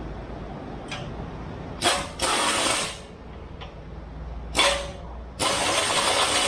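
A power tool run in bursts: a short burst about two seconds in, another near five seconds, then a longer run starting about a second before the end.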